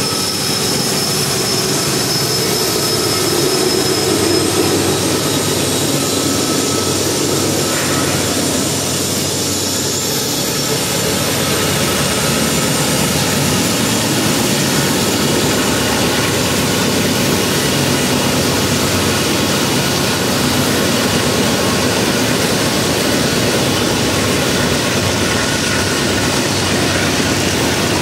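Union Pacific diesel-electric locomotives passing close under heavy load as they pull a coal train up a grade, engines and turbochargers running hard. Past the middle the engine sound gives way to the steady rolling of coal hopper cars over the rails.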